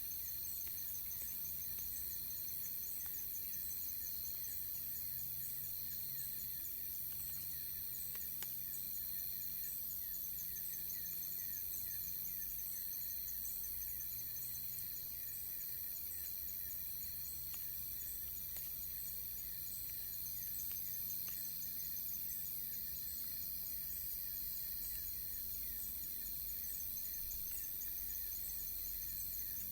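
Insects chirping and trilling steadily in several high-pitched layers, one with a fast, even pulse.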